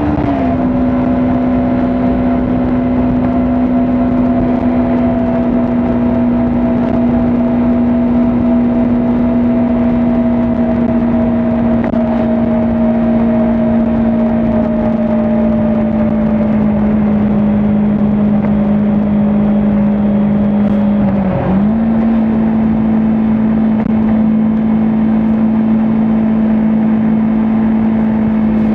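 Kawasaki Ninja 400 parallel-twin engine running at steady high cruising revs. The pitch drops right at the start, then sinks slowly, with a short dip and recovery about 21 seconds in.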